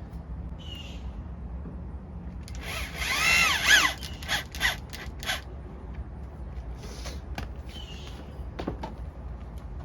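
Power drill running in short trigger pulls: one longer run a few seconds in whose whine speeds up and then winds down, followed by several brief bursts.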